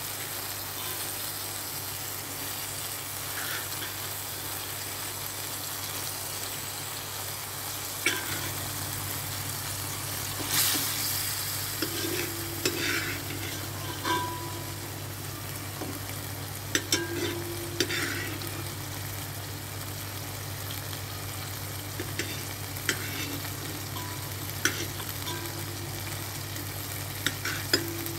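Chicken and boiled kachnar buds sizzling in ghee in a pot, a steady frying hiss. From about eight seconds in, a utensil clacks and scrapes against the pot now and then.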